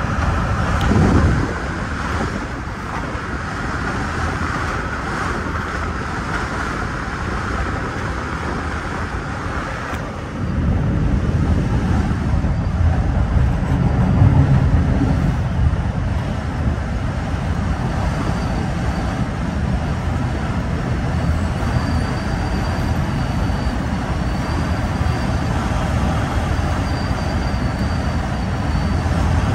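Metra commuter train running on the rails, heard from inside the train as a steady rumble of wheels on track. About a third of the way in the rumble turns deeper and louder for several seconds as the train crosses a steel girder bridge, then settles back. A faint high whine joins in the second half.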